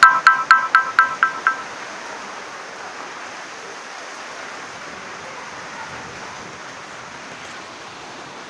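Steady hiss of heavy rain. In the first second and a half a rapid electronic beeping tone, about four beeps a second, fades out.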